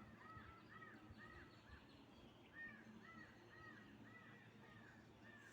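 A bird calling faintly in a fast series of short, arched, repeated notes, about four a second, in two runs with a brief pause between.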